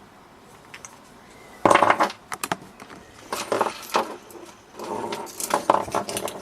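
Hard plastic and metal parts of a disassembled coffee machine clattering and rattling as they are handled, in several bursts beginning a little under two seconds in.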